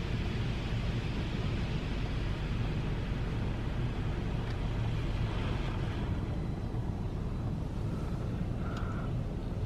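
Belanger Saber tunnel car wash heard from inside the car: a steady low rumble with a spray-like hiss that eases off about six seconds in, and two short faint tones near the end.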